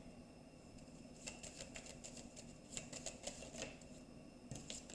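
Lenormand cards being handled and laid out: a run of light clicks and taps starting about a second in, with a few more near the end.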